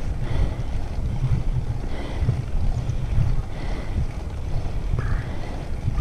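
Wind buffeting the microphone of a moving bicycle rider: a loud, uneven low rumble.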